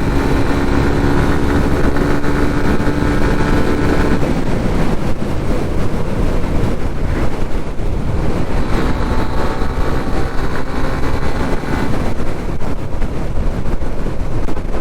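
Motorcycle at cruising speed: wind rushing over the microphone under a steady engine hum. A clearer engine note stands out for the first few seconds and again in the middle.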